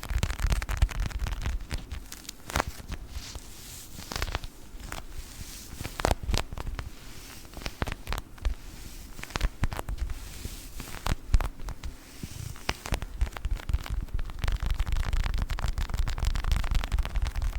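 A tiny children's toy ball handled close to a sensitive microphone: irregular crackles and sharp clicks over a low rumble.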